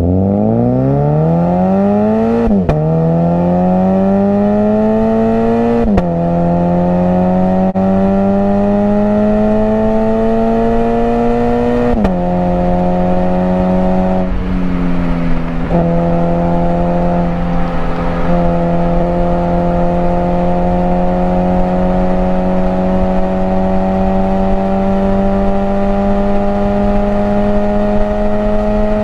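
Toyota GT86's 2.0-litre flat-four engine heard from inside the cabin, accelerating hard as the automatic gearbox shifts up: the revs climb and drop at each shift about two and a half, six and twelve seconds in. There is a brief lift and a step down in revs around fourteen to sixteen seconds, then a long steady pull with the revs slowly rising.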